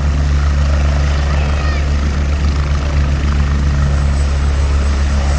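Helicopter running close by: a loud steady rotor drone with fast rhythmic blade chop underneath and a thin high turbine whine that sinks slightly in pitch.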